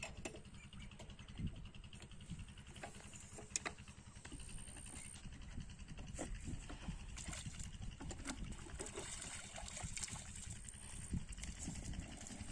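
8 hp single-cylinder diesel engine of a water pumpset running steadily, a rapid, even low thudding from its firing strokes.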